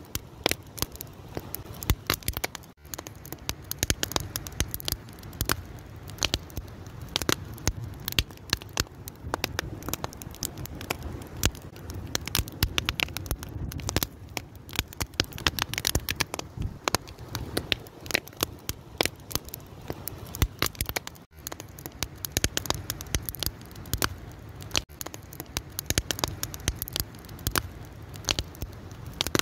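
Fire crackling steadily: many irregular sharp pops and snaps over a low, even rumble of the flames.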